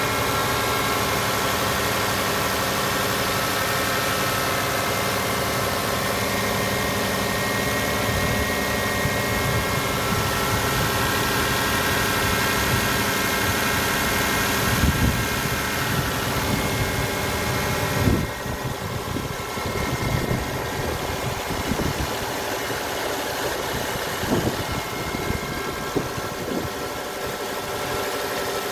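Hyundai Grandeur TG gasoline engine idling steadily, a running noise the owner of this older car finds too loud. About two-thirds of the way through, the sound suddenly turns duller, with a few short bumps after.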